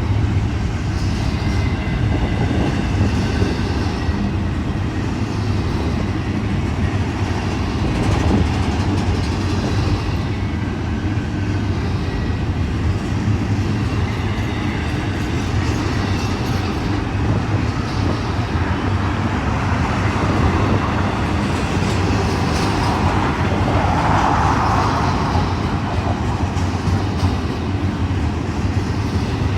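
Union Pacific intermodal freight train rolling past at speed, its cars' wheels running steadily on the rails.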